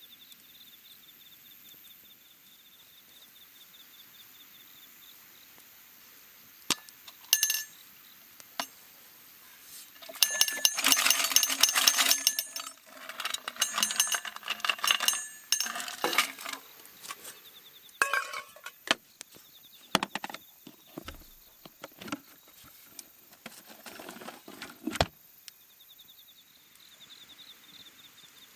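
Hard objects clinking and clattering: a few sharp clinks, then a dense run of clatter about a third of the way in, then scattered knocks. An insect chirps steadily in the background.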